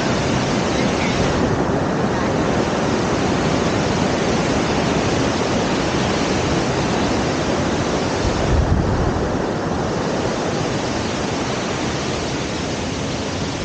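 Steady rushing roar of a waterfall's falling water, with a brief low rumble about eight and a half seconds in.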